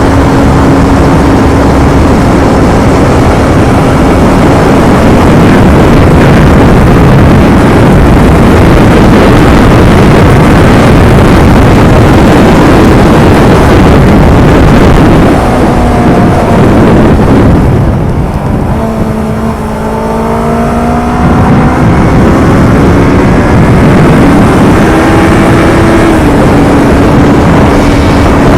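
Yamaha R25's parallel-twin engine running under way through its stock exhaust, largely buried under loud wind noise on the microphone. About two-thirds of the way through the wind eases briefly and the engine note is heard rising as the bike accelerates.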